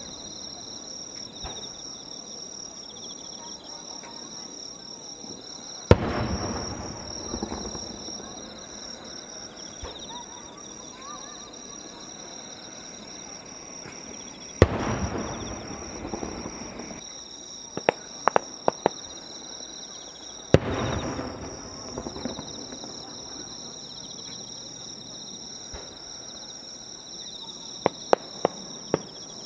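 Aerial firework shells bursting: three loud booms with long echoing rumbles, about six, fifteen and twenty-one seconds in, and quick runs of sharp crackling cracks near eighteen and twenty-eight seconds. A steady high insect chirring goes on underneath.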